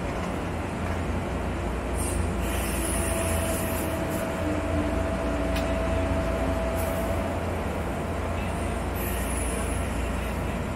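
A JR West electric local train running on the rails with a steady low rumble. High-pitched wheel squeals come about two seconds in and again near the end, with a held mid-pitched whine between them.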